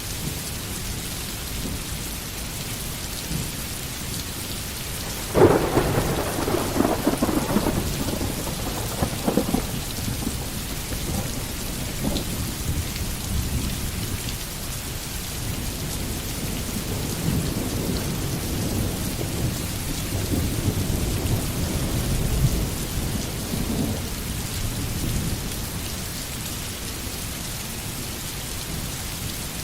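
Steady rain falling in a forest. About five seconds in, a sudden clap of thunder breaks in and rolls on as a low rumble that swells and fades until near the end.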